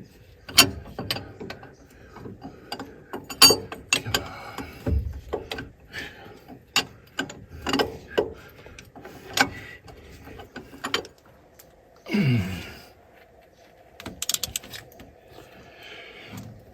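Hand tools working on metal machinery: irregular sharp metallic clicks and knocks, like a spanner or ratchet on fittings.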